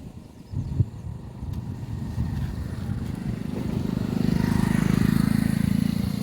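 A motor vehicle engine passing close by, growing louder to a peak about five seconds in and easing off near the end, with a sharp knock about a second in.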